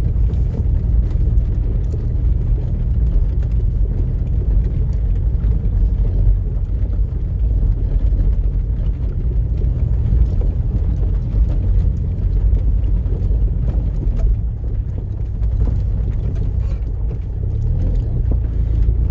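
Land Rover Freelander Td4's four-cylinder turbodiesel heard from inside the cabin, pulling steadily at low speed up a rocky track as a continuous low rumble, with scattered faint clicks and knocks from the wheels and suspension on the stony surface.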